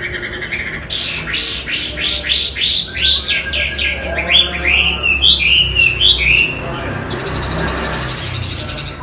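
Chinese hwamei singing loudly: a run of repeated whistled up-and-down sweeps, about three a second, then rapid warbled phrases, then a harsh buzzing rasp over the last two seconds.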